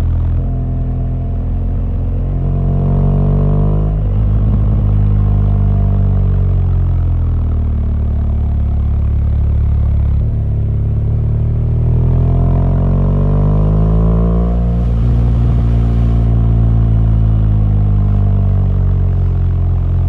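BMW R1200GS boxer-twin engine under way, its revs climbing and dropping sharply about four seconds in, falling away over the next few seconds, then climbing again to a second sudden drop near fifteen seconds before running on steadily.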